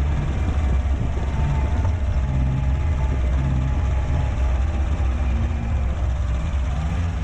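Steady vehicle engine and road rumble from a moving vehicle, heavy in the low end with faint wavering engine tones above it.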